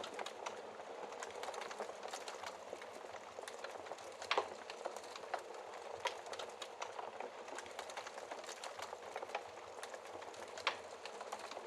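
Wood fire crackling in a fireplace, heard through its glass door: a steady hiss of burning with many small snaps and a few louder pops.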